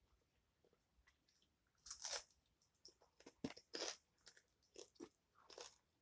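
Close-up eating sounds: a person biting and chewing crisp fried food, with a series of sharp crunches starting about two seconds in, loudest around two and three and a half to four seconds.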